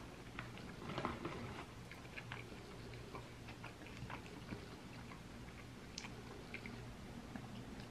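A person chewing food with the mouth close to the microphone: faint, irregular wet clicks and crackles, a little busier about a second in, over a steady low hum.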